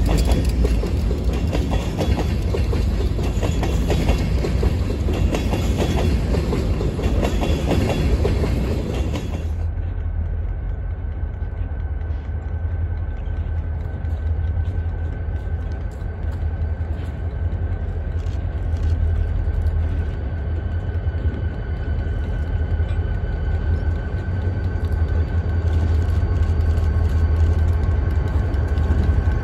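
Freight train covered hopper cars rolling past close by, wheels clicking and clattering over the rails. About ten seconds in it cuts to diesel locomotives approaching, with a steady low engine rumble and a faint steady high whine.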